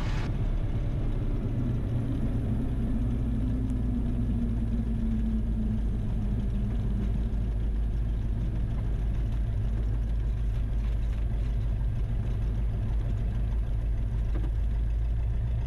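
Cessna 172RG's four-cylinder piston engine and propeller running at low taxi power, a steady low drone heard inside the cockpit. A faint tone slides slowly lower in pitch over the first few seconds.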